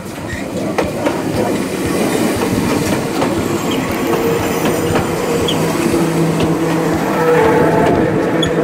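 Enoden electric train passing close by, wheels clicking over the rail joints. It grows louder over the first couple of seconds, and a steady low hum joins about five seconds in.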